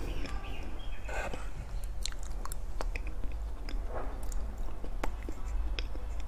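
Close-miked mouth sounds of eating soft, creamy matcha cake: wet chewing with many sharp lip and tongue clicks.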